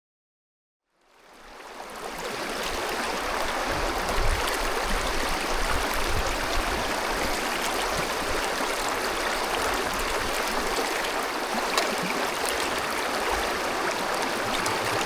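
Running water from a stream, a steady rushing with small splashy crackles, fading in after about a second of silence.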